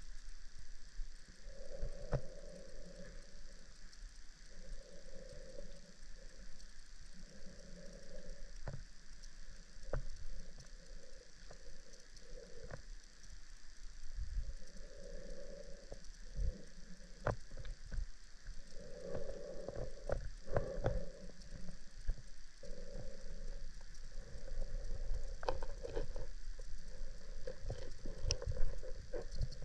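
Underwater drone's electric thrusters whirring in short spurts every couple of seconds as it manoeuvres, over a steady faint high hum, with scattered sharp clicks that grow more frequent near the end.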